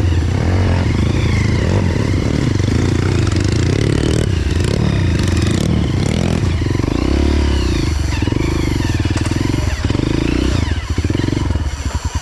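Trail motorcycle engine running under way, the revs rising and falling as the throttle is worked, with some clatter from the bike over rough ground. The engine note falls off just before the end.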